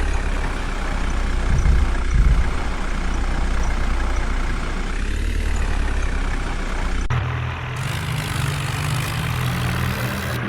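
Tractor diesel engine running under load. About seven seconds in the sound cuts abruptly to another steady engine note.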